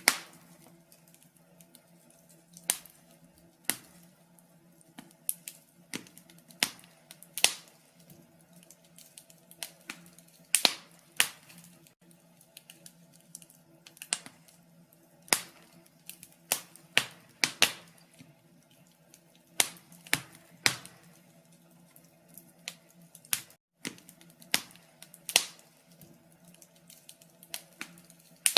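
Wood fire in a fireplace crackling, with irregular sharp pops and snaps, a few every second or two, over a faint steady low hum.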